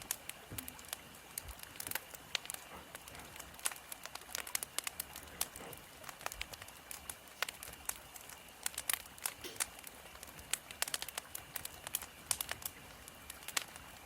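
Burning firewood crackling, with irregular sharp pops and snaps several times a second over a faint steady hiss.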